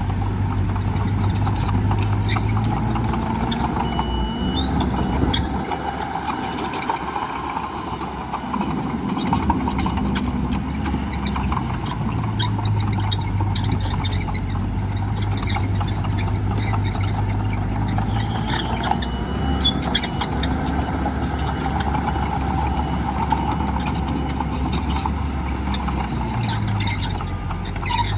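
Heavy diesel engines of earth-moving machinery running steadily. The engine note changes about four seconds in and settles back about twelve seconds in, with scattered clanks over it.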